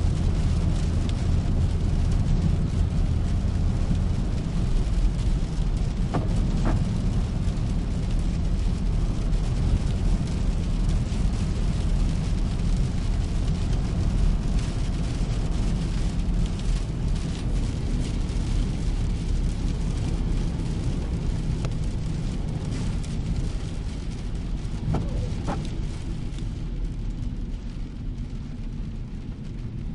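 A car driving in rain: a steady low rumble of engine and tyres under the hiss of rain and water spray. A faint brief squeak sounds twice, and the whole sound slowly fades down near the end.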